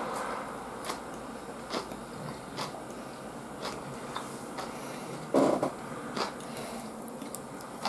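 A person chewing a mouthful of grilled eel, with soft wet mouth clicks about once a second. About five and a half seconds in there is one louder, short sound.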